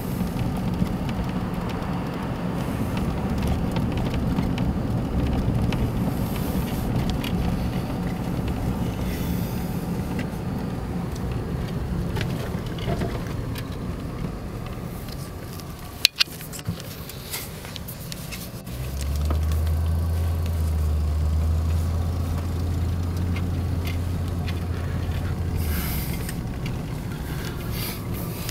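Car driving, with steady engine and tyre rumble. There is a sharp click about 16 seconds in, and a low steady hum from about 19 to 26 seconds.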